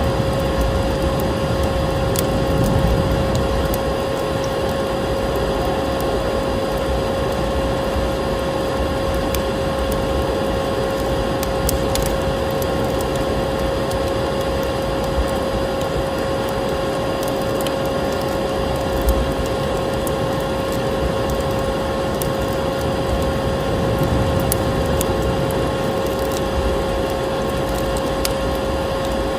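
Vacuum cleaner running steadily with a constant motor whine, over a crackling wood fire in a fireplace that gives scattered sharp pops.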